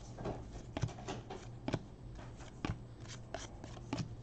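Trading cards being handled and flipped through, giving a string of light, irregular flicks and clicks.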